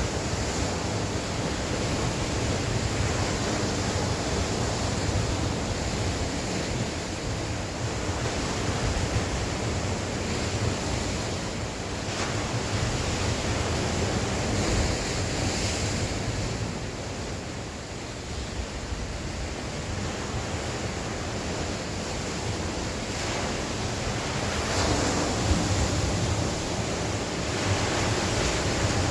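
Sea waves surging and washing on the shore in a strong wind, with wind buffeting the microphone as a steady low rumble. The surf eases off a little past the middle, then swells louder again near the end.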